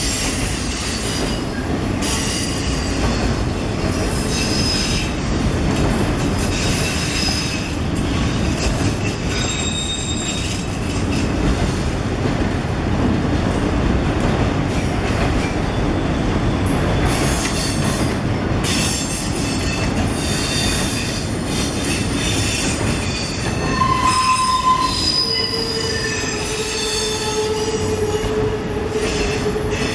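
Autorack freight cars rolling past on a curve: a steady rumble of steel wheels on rail, with high-pitched wheel squeal coming and going as the wheel flanges grind through the curve of the connecting track. A lower squealing tone sets in about three-quarters of the way through and holds to the end.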